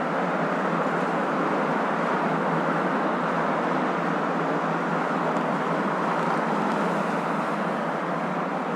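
Steady, unchanging rushing noise of a moving car, a hum of road and tyre noise with no deep rumble, played as sleep noise.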